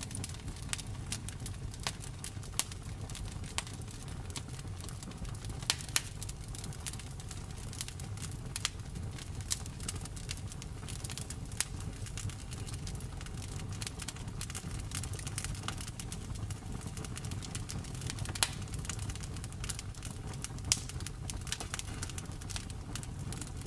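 Wood fire burning with a steady low rumble and frequent sharp crackles and pops, a few louder snaps scattered through.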